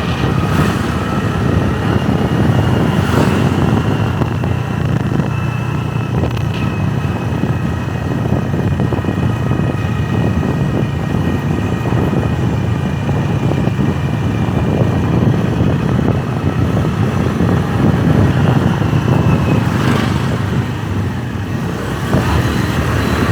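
Motorbike engine running steadily while riding along, with a faint whine that wavers slightly in pitch over the engine.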